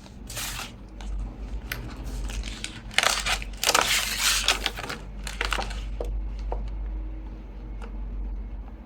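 Crinkling and rustling of a stamp set's plastic sheet being handled while a butterfly stamp is swapped, in irregular bursts with a few light clicks, busiest between about three and five seconds in.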